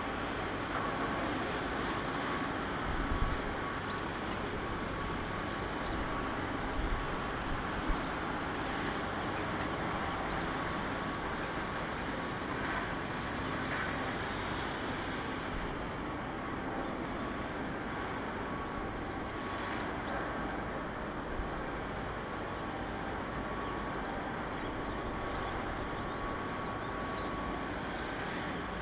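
Steady mechanical background noise with a faint steady whine, and a few faint knocks about three and seven to eight seconds in.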